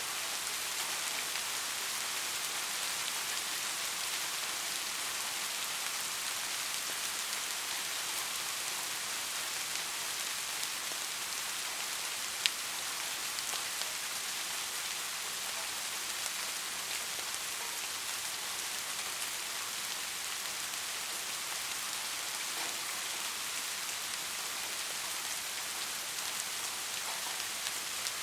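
Steady, gentle rain: a dense, even hiss with no thunder. A single sharp tick stands out about halfway through.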